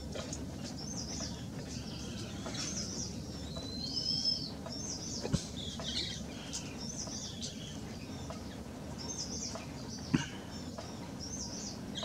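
Birds chirping and twittering in many short, high calls, with one longer whistled note about four seconds in. Two sharp clicks come about five and ten seconds in, over a steady low background hum.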